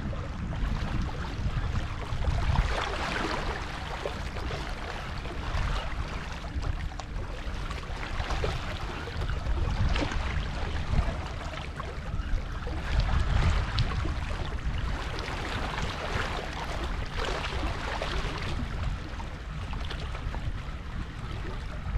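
Wind buffeting the microphone, a fluctuating low rumble, over a steady hiss of water and sea noise with scattered small ticks.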